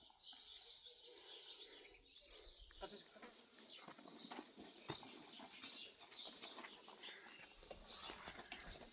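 Faint bird chirping, with scattered light clicks and rustles.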